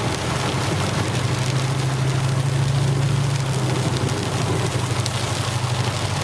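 Heavy rain beating on a truck as it drives through flooded streets, with a steady low engine drone underneath that swells for a second or so in the middle.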